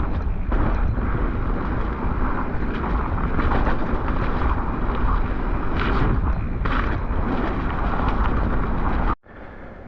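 Mountain bike riding fast down a wet, muddy trail: steady wind rush on the microphone with tyre noise and rattling from the bike, and two sharper knocks about six and seven seconds in. The sound cuts off abruptly near the end.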